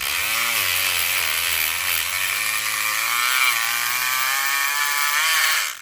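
SouthOrd E500XT electric pick gun running continuously with a loud buzz, its motor pitch wavering up and down; it cuts off suddenly near the end.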